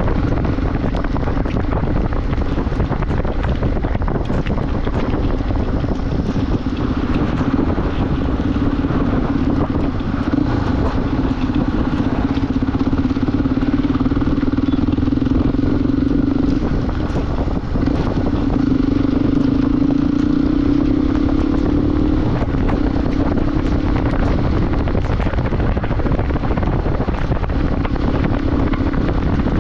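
Motorcycle engine running at a steady cruise, with wind buffeting the microphone; the engine note climbs a little about two-thirds of the way through.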